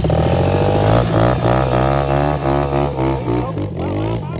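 125cc dirt bike engine running under throttle, its pitch rising and falling as the revs change.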